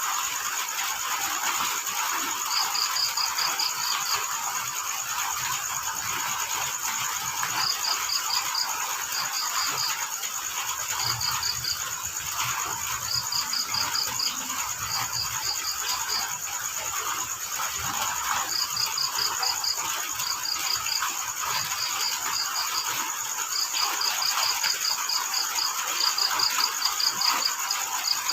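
Crickets chirping in short trains of quick pulses, coming in groups with pauses between them, over a steady hiss of falling rain.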